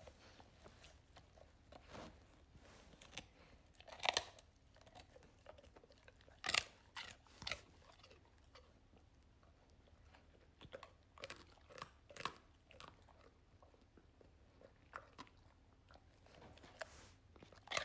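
Labrador puppy chewing a large crunchy dog treat, with scattered, irregular crunches as it breaks apart between the teeth.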